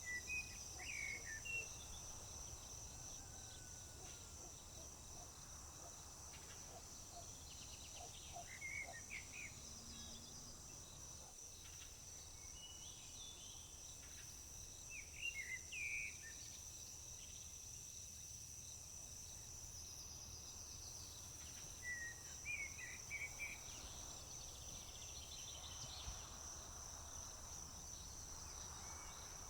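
Crickets trilling steadily at a high pitch, with a songbird singing short chirpy phrases about every seven seconds.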